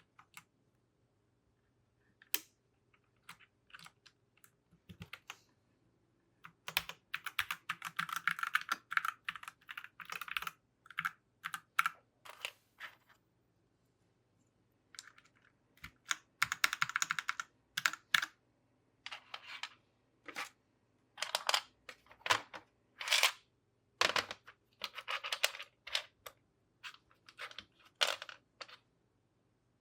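Keys of a mechanical keyboard with new keycaps clacking: single clicks and dense runs of rapid presses, broken by short pauses.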